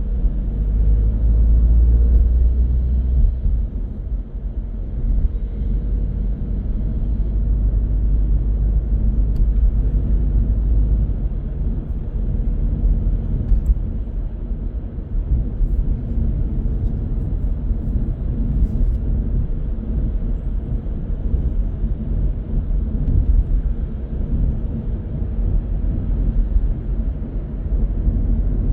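Car driving through city traffic: a steady low rumble of engine and tyre noise.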